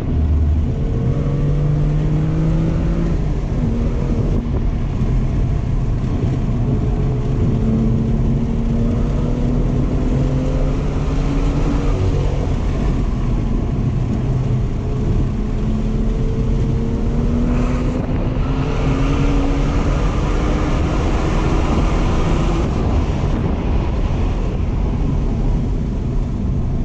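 2018 BMW M2's turbocharged inline-six heard from inside the cabin under hard track driving: the engine note climbs in pitch through the revs several times and drops back at each shift or lift, with steady road and wind noise. The hiss grows louder during the second half as the car runs faster.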